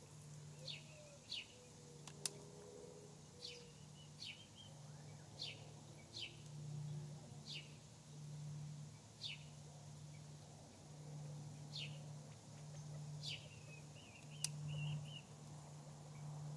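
Faint, short, sharp bird chirps, about a dozen spread irregularly, a few trailing into a brief twitter, over a steady low hum.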